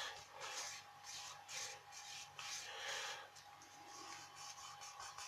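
Paper being rubbed under fingers as the folds of an origami model are pressed and creased: faint, repeated soft rubbing strokes, about two a second.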